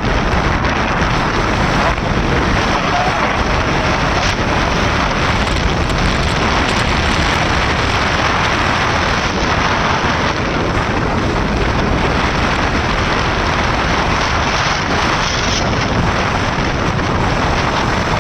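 Steady rush of wind on a motorcycle rider's microphone while riding, a dense noise with no clear engine note.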